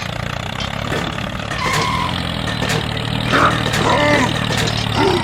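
A small motor running with a steady low hum, with a couple of short high, voice-like sounds and faint clicks over it.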